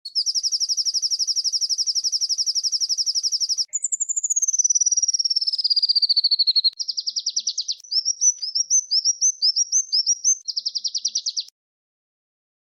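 Small songbirds' rapid high trills, edited together: a fast even trill of about three and a half seconds, then a trill sliding steadily down in pitch, then shorter trills around a run of quick down-slurred whistled notes, stopping abruptly about a second before the end.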